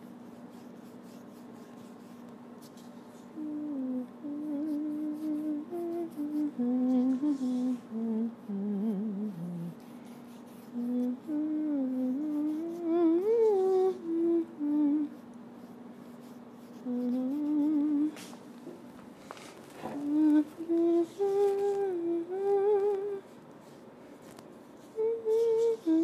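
A woman humming a slow, wandering tune in phrases with short pauses between them, over faint scratchy strokes of a paintbrush. A steady low hum sits underneath and stops about two-thirds of the way through.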